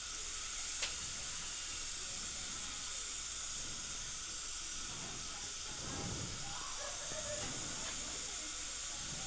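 High-speed dental handpiece running with its water spray: a steady high hiss with a faint whine, as a burr thins down a broken implant abutment.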